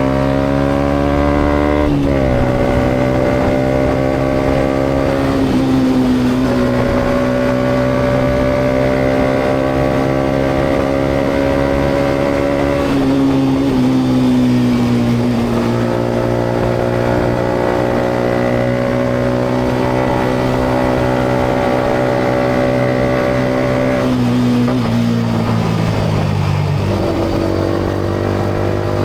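Yamaha MT-125's single-cylinder four-stroke engine through a GPR aftermarket exhaust, under way on the road. The pitch climbs slowly and drops sharply at gear changes about two, five and thirteen seconds in, then steps down in several quick drops near the end. Road and wind noise run underneath.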